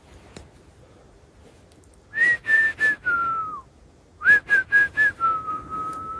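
A short whistled tune in two phrases: three quick notes followed by a longer note that slides down, then four quick notes and a long, lower note held to the end. It starts about two seconds in, after a faint quiet stretch.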